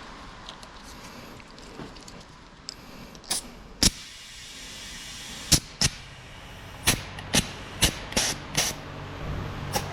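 A series of about ten sharp, short clicks and knocks, irregularly spaced and mostly in the second half, from hand tools and parts being handled during work on a car's underside.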